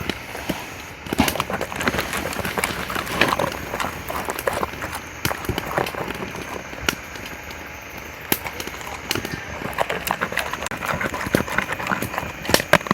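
Large dog eating from its food, quick irregular chewing and clicking of teeth on the meal.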